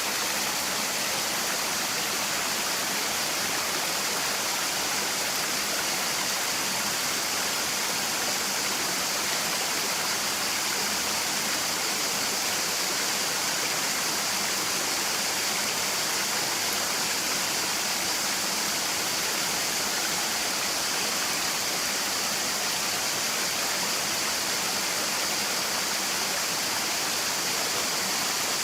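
Rushing water of the Platanistos stream, a steady even rush with a strong hiss.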